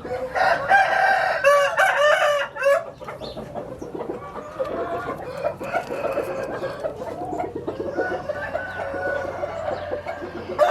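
Roosters crowing. A loud crow comes in the first few seconds, then quieter crowing and clucking from other birds, and another loud crow begins at the very end.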